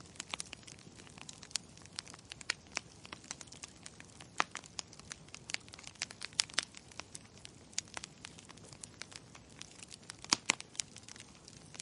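Wood fire crackling: a steady stream of irregular small pops and snaps over a faint hiss, with a few sharper pops.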